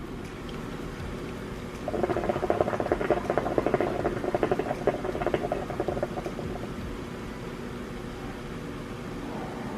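Hookah water bubbling in a rapid gurgling rattle as smoke is drawn through the hose, lasting about four seconds and stopping about six seconds in, over a steady background hum.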